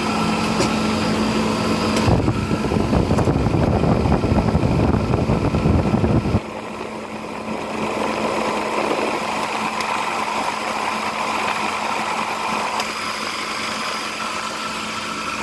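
LG 10,000 BTU window air conditioner running with a steady hum from its compressor and blower fan. Its fan motor has bearings that were oiled after seizing and does not sound very happy. From about two seconds in, a louder rumbling rush runs for roughly four seconds and then cuts off suddenly.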